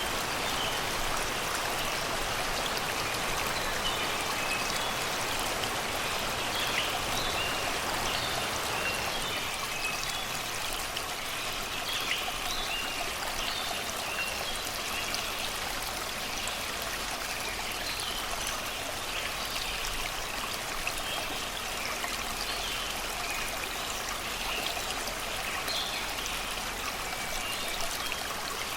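Shallow river flowing steadily over and around rocks, a continuous babbling rush of water, with many short bird chirps scattered through it.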